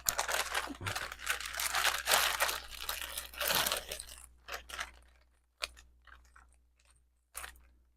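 Crinkling and rustling of wrapping being handled for about four and a half seconds, followed by a few scattered light clicks.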